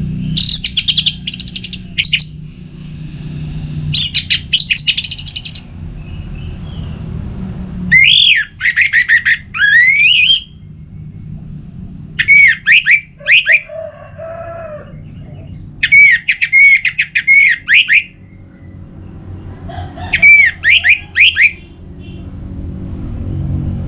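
Orange-headed thrush singing: about six loud phrases of rapid, sweeping whistled notes, each a second or two long with short pauses between them. A steady low rumble runs underneath.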